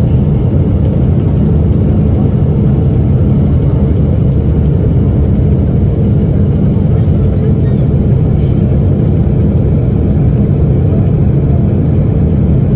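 Loud, steady low rumble of a jet airliner's failed engine coming apart in flight, heard from inside the passenger cabin.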